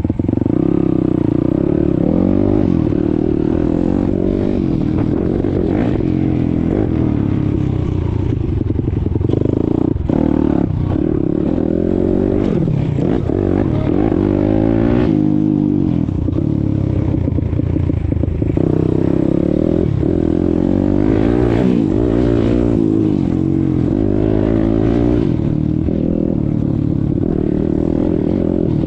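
YCF Bigy 190 Daytona pit bike engine, a single-cylinder four-stroke, running as the bike is ridden. It revs up and drops back again and again in pitch as the throttle is worked.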